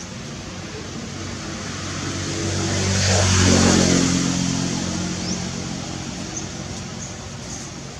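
A motor vehicle driving past. Its engine grows louder to a peak about three and a half seconds in, then fades, and the engine note drops in pitch as it goes by.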